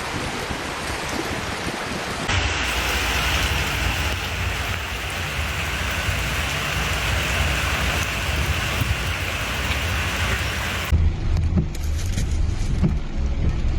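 Heavy rain pouring down as a steady hiss, with a low rumble of wind on the microphone. The sound changes abruptly twice as one recording cuts to another.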